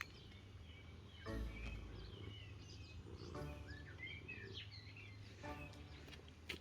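Small wild birds chirping and singing in short repeated phrases. Three louder, lower calls come about two seconds apart, with a brief low rumble under the first.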